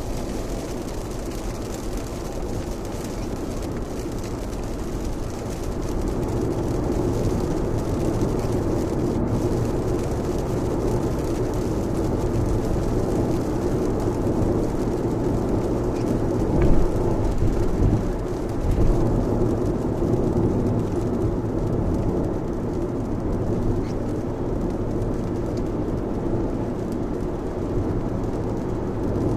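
Lexus RX driving at speed through heavy rain: steady road, tyre and rain noise, with two brief thumps a little past the middle.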